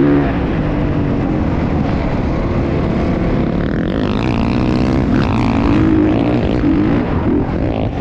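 Motocross bike engines running, their pitch rising and falling as they rev.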